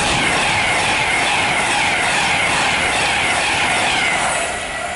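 Virgin Pendolino (Class 390) electric train passing close at speed: a loud rush of wheel and air noise with a high whine that falls in pitch again and again as the carriages go by. It fades as the train clears, about four seconds in.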